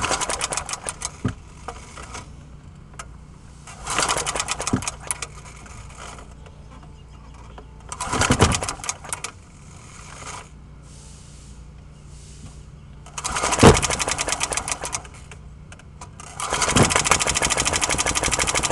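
Old lawnmower engine being cold-started by pulling the recoil starter cord: five pulls about four seconds apart, each a short burst of fast cranking ticks, the last pull running longer, without the engine catching.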